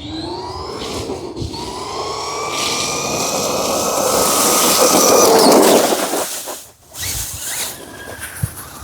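Redcat Volcano EPX RC truck at full throttle on a speed run: its stock brushed 540 motor on a 3S LiPo, driven by a Hobbywing 1060 ESC, whines over tyre noise. The whine rises in pitch, breaks off briefly about a second in, then climbs again and grows louder for about five seconds before dropping away sharply near seven seconds.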